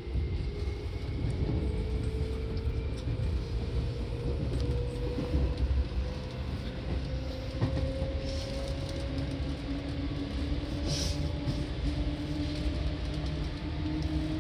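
Seibu 2000 series electric train running between stations: a steady low rumble of wheels on rail, with a motor whine that slowly rises in pitch. A single knock comes about seven and a half seconds in, and a short hiss about eleven seconds in.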